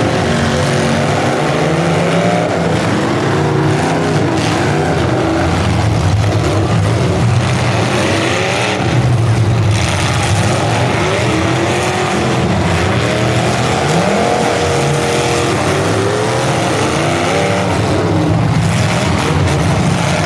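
Several demolition derby cars' engines revving up and down at once, their pitches rising and falling over one another in a loud, steady din.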